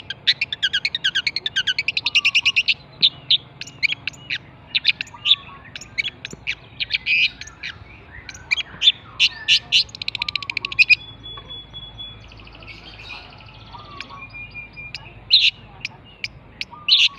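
Long-tailed shrike (pentet) singing: rapid runs of short, sharp chattering notes, dense at first, then sparser with a quieter pause about two-thirds of the way through before the notes return.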